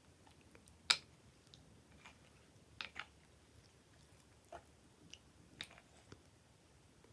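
Sticky slime being squeezed and stretched by hand, giving scattered wet clicks and pops; the loudest comes about a second in, and a quick pair follows near the three-second mark.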